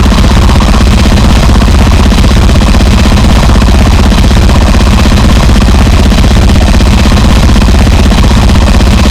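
Gore noise: dense, heavily distorted harsh noise, very loud and unbroken, over a heavy low end that flutters rapidly.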